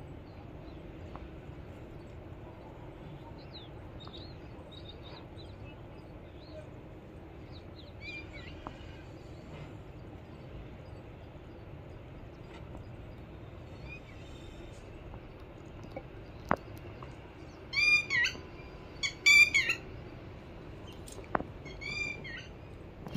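Birds calling outdoors over a steady low background hum: faint chirps throughout, then a run of loud, repeated chirping calls about three-quarters of the way in and another near the end. Two sharp clicks stand out in between.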